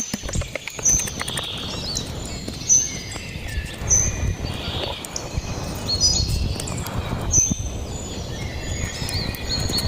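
Birds chirping, short high calls repeated every second or so, over a steady low outdoor noise with scattered small knocks and clicks.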